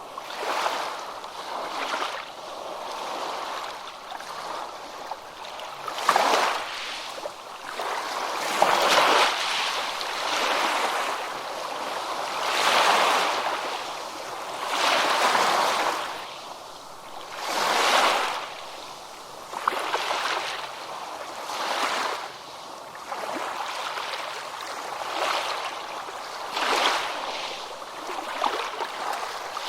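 Ocean surf breaking and washing up on a beach, each wave swelling and falling back every few seconds.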